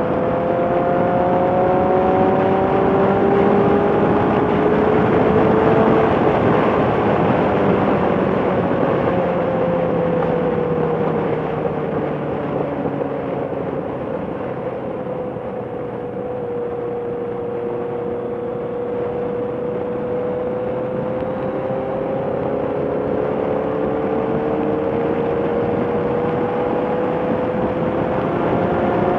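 Motorcycle engine running under way, with road and wind rush. The engine note rises for the first few seconds, falls away over the next ten, then climbs slowly again toward the end.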